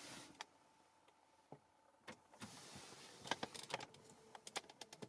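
Faint, irregular clicks of car buttons being pressed, several in quick succession in the second half, over a faint steady tone.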